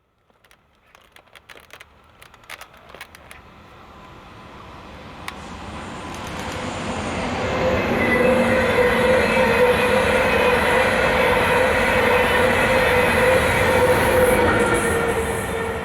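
A train approaching and passing on the line. Its sound builds over several seconds, then holds loud with a steady ringing tone for about seven seconds, and begins to die away near the end.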